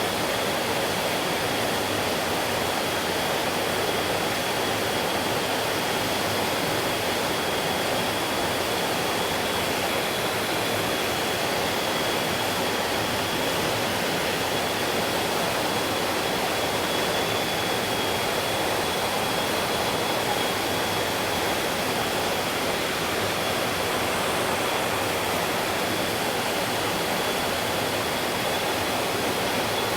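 Stream water flowing in a steady, even rush, with a thin, steady high tone above it.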